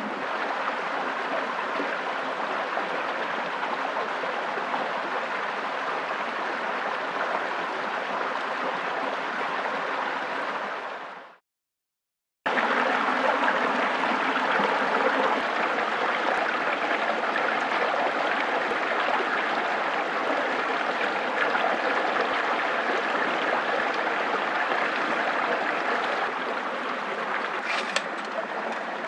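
Steady rushing of running water, like a forest stream. It fades out about eleven seconds in, drops to a second of silence, then comes back abruptly at the next shot, with a faint tick near the end.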